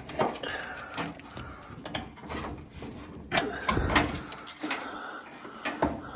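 Irregular metal clicks and clanks of hand tools as a new car battery is fastened down with its hold-down, with a heavier knock about midway.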